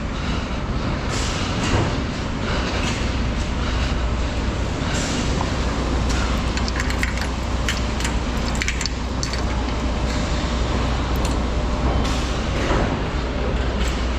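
Semi-truck diesel engine running with a steady low drone, with scattered clicks and rattles over it.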